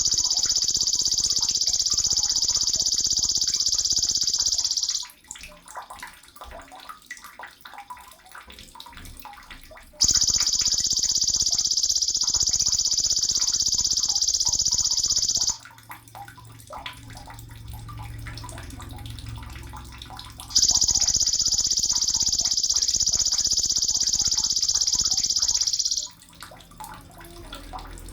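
Sogon bird song: a long, high, buzzing trill held at one pitch for about five seconds, which starts and stops abruptly and comes three times, about ten seconds apart.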